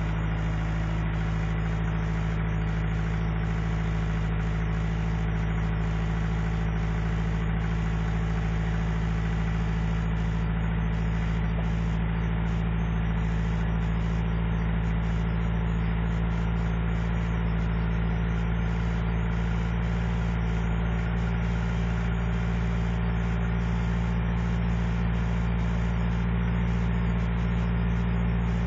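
Truck engine idling steadily, still cold and warming up shortly after a hard cold start in sub-zero weather.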